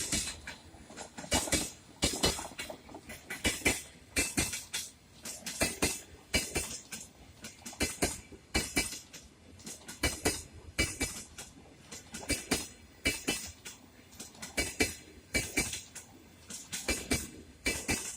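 Passenger train hauled by a ChS7 electric locomotive rolling past, its wheels clacking over the rail joints in repeated quick clusters of knocks.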